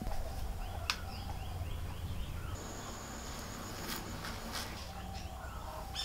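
Quiet outdoor garden ambience with a bird giving a quick run of short, falling chirps a little after a second in, and a few sharp light clicks.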